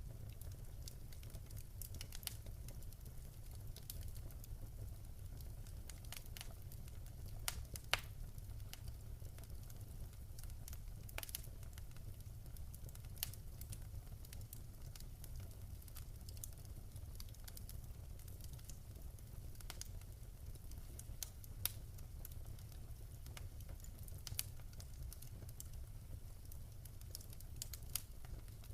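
Wood fire crackling: irregular sharp pops and snaps over a steady low rumble, with a few louder pops now and then.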